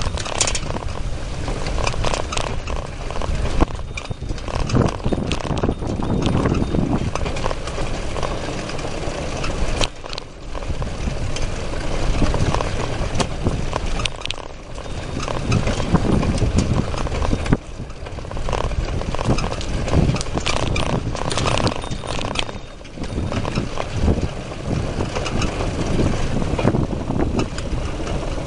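Rattling and buffeting from a camera mounted on a bicycle's handlebar while riding: a constant clatter of small knocks with rushing wind noise that swells and dips every few seconds.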